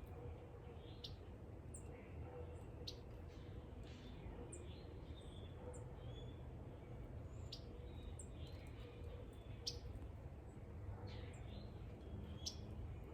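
Small birds chirping: many short, high, quickly falling chirps scattered throughout, over a faint steady hum.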